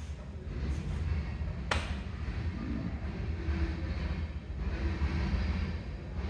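Steady low rumble of road and running noise heard from inside a moving car, with one sharp click a little under two seconds in.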